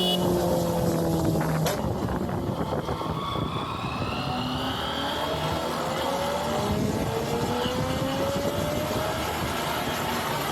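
Honda CBR motorcycle engine under way with a steady rush of wind and road noise. The engine note falls over the first couple of seconds, then climbs slowly for several seconds as the bike pulls. A single sharp click comes about two seconds in.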